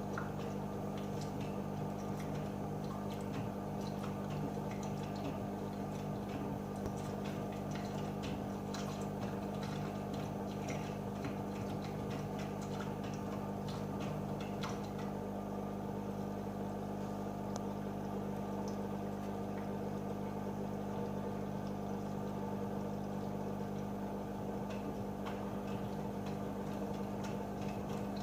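AEG Öko-Lavamat 88840 washing machine running with a steady motor hum and water sloshing, with small scattered clicks from the drum.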